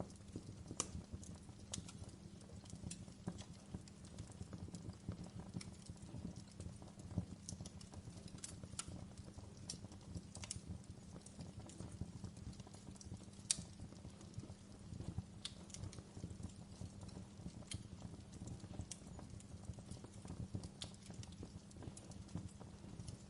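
Campfire crackling: irregular sharp pops and snaps of burning wood over a steady low rumble, with one louder pop a little past the middle.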